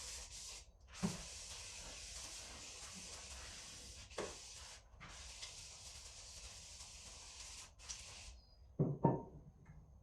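Pressurised spray hissing in several long bursts that start and stop sharply, with a few knocks in between and two close knocks near the end.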